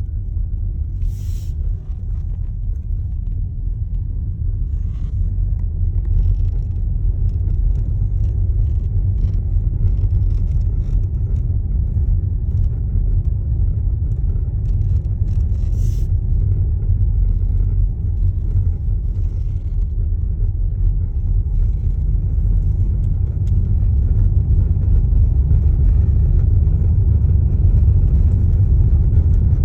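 Low, steady road rumble of a TOGG T10X electric SUV driving, growing slightly louder toward the end, with two short sharp clicks, one about a second in and one about halfway.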